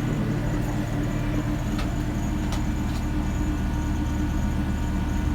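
Steady low drone of ship's machinery, an engine or generator running at constant speed, with a few faint clicks about two to three seconds in.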